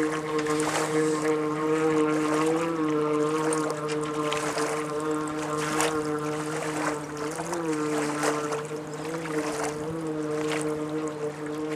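Engine of an amphibious Subaru-based car-boat running at a steady pitch as it moves through water, wavering slightly now and then, with frequent splashes of water against the hull.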